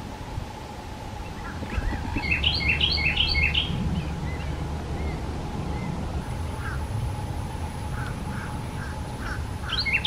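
Wild birds calling: a burst of rapid, overlapping chirping calls a couple of seconds in, then a string of short single calls, and another quick burst near the end.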